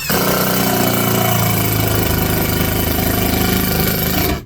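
Cordless screw gun driving a screw into wood, running steadily at speed for about four seconds, starting and stopping abruptly.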